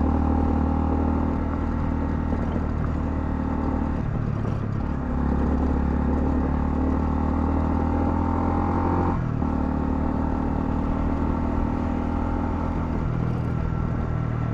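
Honda CL250's single-cylinder engine running on the road, its note steady between two gear changes, about four and nine seconds in, where it breaks briefly and settles at a new pitch.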